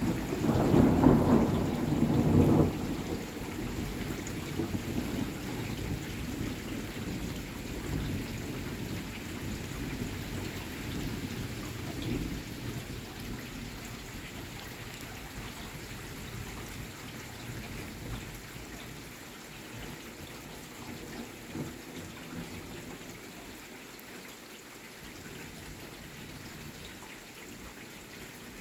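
A loud thunderclap in the first couple of seconds, its low rumble rolling on and slowly fading, over steady rain.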